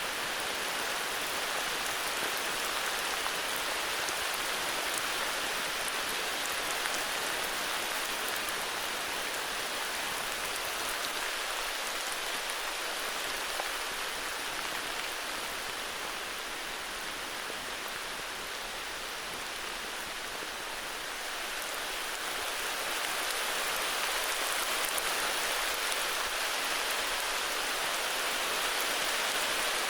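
Steady heavy rain falling, an even hiss with fine drop ticks, easing slightly in the middle and picking up again.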